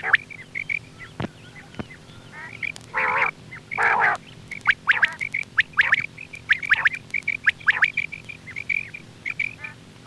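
Quail calling: runs of short, sharp, high chirps with quick downward sweeps. Two longer, harsher rasping calls come about three and four seconds in. A steady low hum sits underneath.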